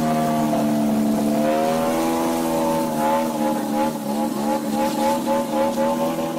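Propeller aircraft engine running steadily, a droning tone whose pitch wavers slightly up and down.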